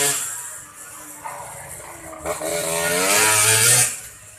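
Small motorcycle engine revving in two rising bursts: one dies away just after the start, and the next builds from about two seconds in and cuts off about a second and a half later.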